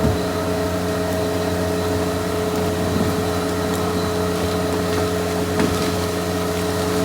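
Heavy earthmoving machine's diesel engine running at a steady speed, with a few short knocks over it.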